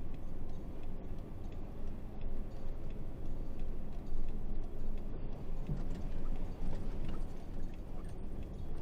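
Diesel engine of an Isuzu 8x4 30-ton truck running with a steady low rumble, with a few faint ticks or rattles over it.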